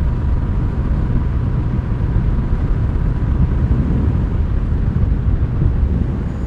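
Honda Rebel 1100's parallel-twin engine running steadily at cruising speed, heard on the ride with heavy wind and road rumble.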